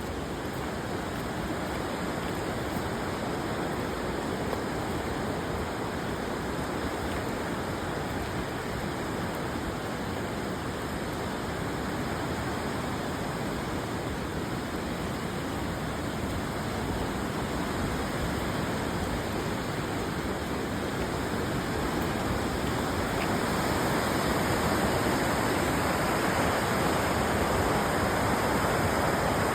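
Steady rushing of a fast-flowing river, growing a little louder near the end.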